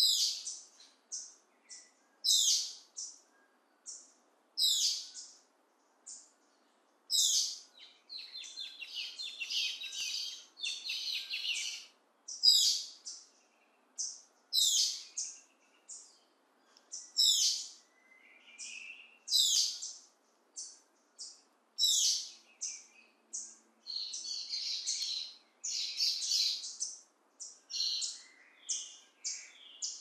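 Several wild birds singing. One loud call that sweeps down in pitch repeats about every two and a half seconds, with short high chirps between, and two stretches of busy chattering from other birds, one a third of the way in and one near the end.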